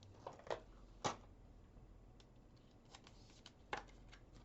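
Trading cards being handled and set down: a few faint slides and rustles, with two sharper clicks about a second in and near the end.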